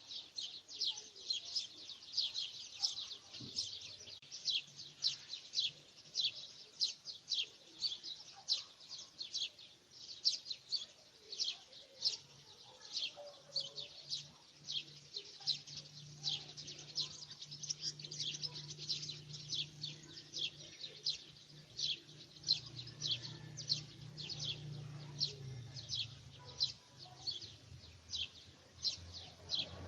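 Bird chirping, short high downward-sliding notes repeated about twice a second throughout. A faint low hum is heard through the middle of the stretch.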